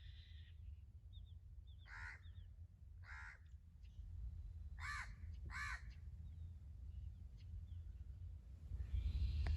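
Birds calling outdoors: a bird gives four loud calls spread over a few seconds, with faint short chirps of smaller birds between them, over a steady low rumble.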